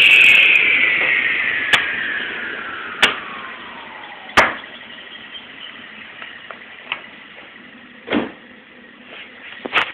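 Table saw winding down after switch-off, its whine falling steadily in pitch and fading over about four seconds. A few sharp knocks come through and after the spin-down.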